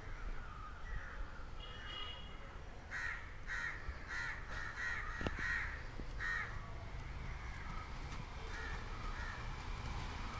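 A bird calling in a series of short calls, about two a second, bunched between roughly three and six and a half seconds in, with fainter calls before them.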